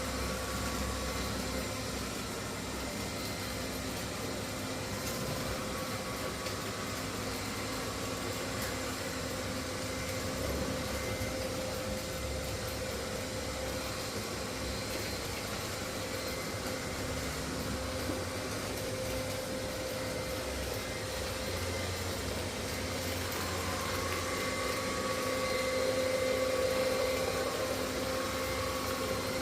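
Robot vacuum cleaner running, its suction fan and motors giving a steady hum and whine that wavers and grows a little louder near the end.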